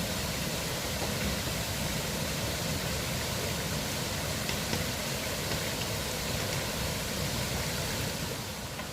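Steady rushing of a flowing river, an even noise that dips slightly near the end.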